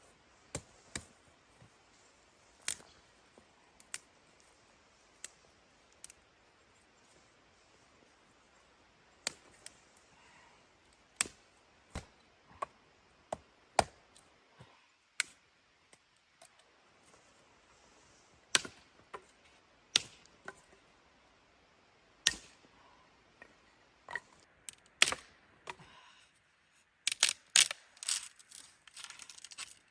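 Scattered sharp cracks and clicks over a quiet background, roughly one every second or two, with a quick flurry of them near the end.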